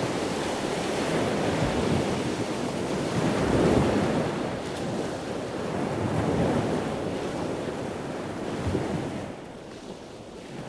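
Ocean surf washing on a beach, swelling and easing every few seconds, with wind buffeting the microphone. It drops lower near the end.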